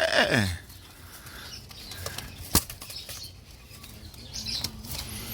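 A bird's wings flapping, with a sharp click about two and a half seconds in.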